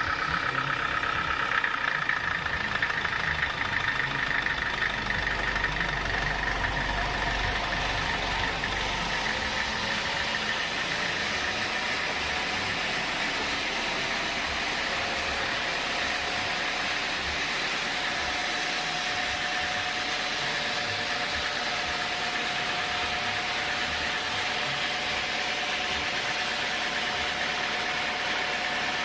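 Sawmill machinery running steadily, a continuous mechanical noise with a whining tone whose pitch shifts lower about two-thirds of the way through.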